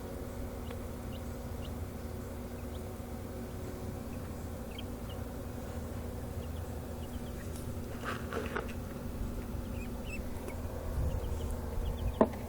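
Baby chicks peeping, with short high cheeps scattered through, over a steady low hum. There is a brief flurry of louder cheeps partway through and a sharp knock near the end.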